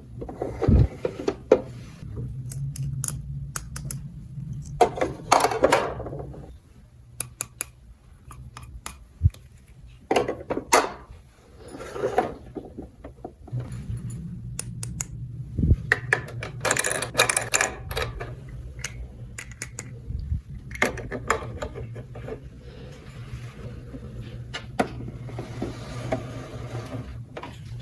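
Small plastic toy pieces clicking, tapping and clattering as they are handled, in irregular bursts, with a low steady hum under much of it.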